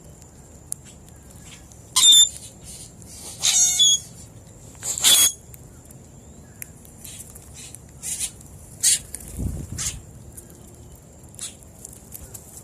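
Birds calling at a seed feeder: three loud, harsh calls in the first half, then several shorter, fainter calls. A faint steady high tone runs underneath, and there is a brief low rumble near the end.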